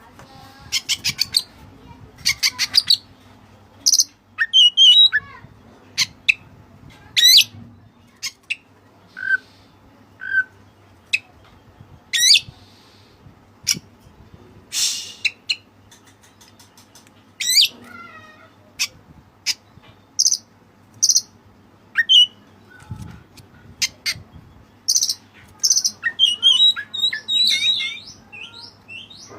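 Oriental magpie-robin (white-breasted kacer) singing a varied song of loud, sharp whistles, rising and falling glides and quick trills, delivered in short separate phrases with brief pauses and a busier run near the end. It is a trained bird whose song is filled with cililin phrases.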